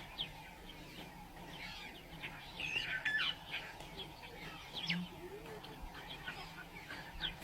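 Several birds chirping and calling in quick short notes, busiest about three seconds in.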